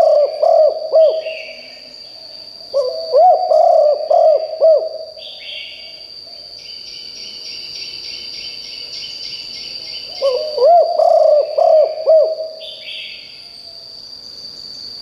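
Spotted dove cooing: a phrase of several quick rising-and-falling coos, heard three times about every four to seven seconds, the first ending about a second in. Behind it run a steady high whine, short higher bird chirps and a rapid high trill in the middle.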